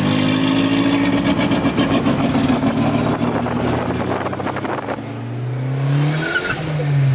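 Turbocharged Ford Focus 2.0 Zetec engine, heard from inside the car, running under load with a rapid fluttering chatter from the turbo. About five seconds in it eases off, then revs up again and drops back near the end.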